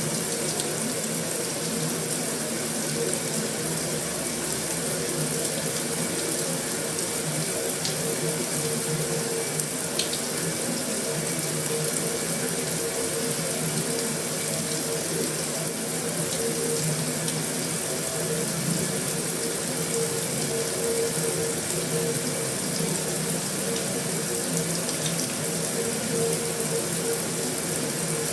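Heavy rain falling on a metal roof: a steady, dense patter with a few sharper drop ticks.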